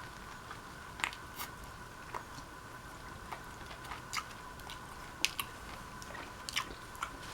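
Close-up chewing and biting of a Subway sub sandwich, with scattered wet mouth clicks and small crunches every second or so, over a faint steady hum.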